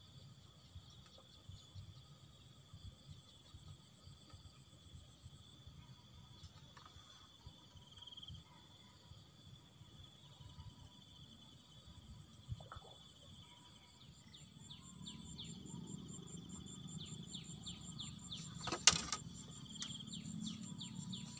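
Insects trilling steadily in a high, finely pulsed drone, with a second, lower trill under it. From about two-thirds of the way in, a quick series of short falling chirps joins in, and a single sharp knock, the loudest sound, comes near the end.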